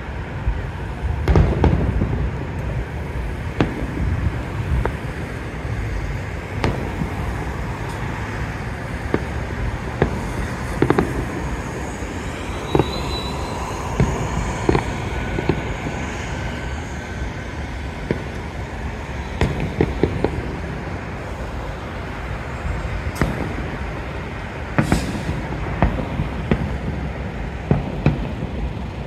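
Fireworks going off: irregular booms and bangs, some single and some in quick clusters, over a steady low background rumble.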